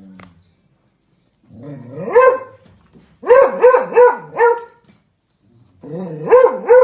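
A dog barking: one drawn-out rising bark, then a run of four quick barks, then two more barks near the end.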